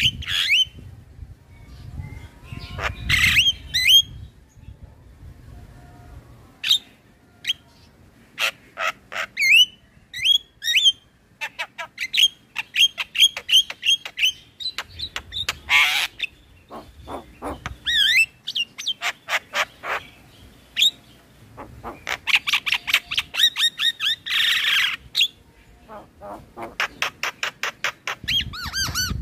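Male Javan myna (jalak kebo) singing in bursts of rapid repeated chirps and harsh whistled notes, with short pauses between phrases.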